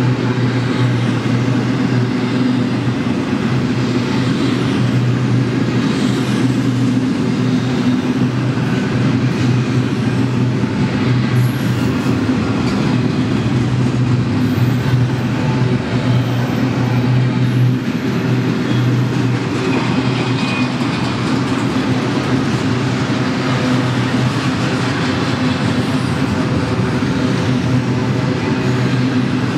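Double-stack intermodal freight train's well cars rolling steadily past, wheels running on the rails.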